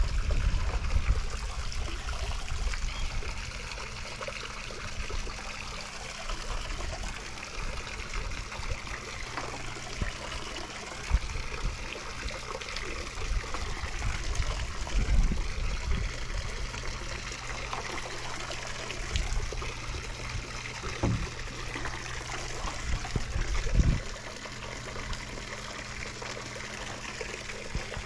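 Swimming pool water trickling and splashing steadily as the newly reopened pool circulates, with intermittent low rumbles.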